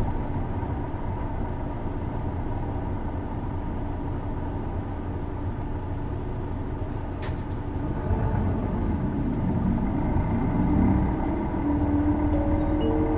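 Isuzu Erga city bus's diesel engine running, heard from inside the passenger cabin as a steady low rumble. About eight seconds in it grows louder, and a whine rises in pitch and then holds as the bus pulls away. The uploader notes that this engine makes a distinctive odd noise.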